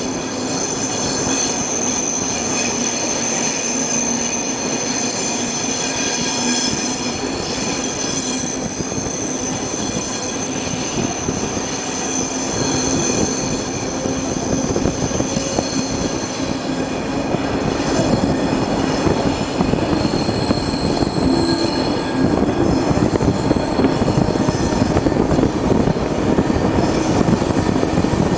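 Passenger train running on a winding mountain line, heard from an open coach window: steady rolling rumble with wheels squealing in several held high tones. It grows louder and rougher about two-thirds of the way through.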